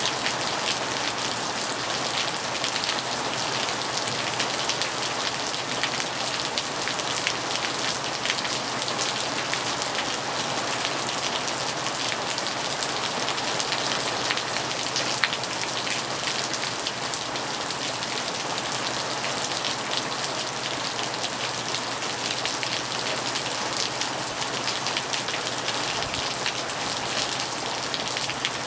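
Storm rain falling steadily on a wet ceramic-tiled veranda floor: an even hiss of rain dotted with the many small ticks of drops striking the tiles.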